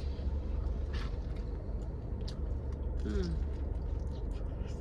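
Steady low rumble of a car engine idling, heard inside the cabin, with a few small clicks and rustles over it.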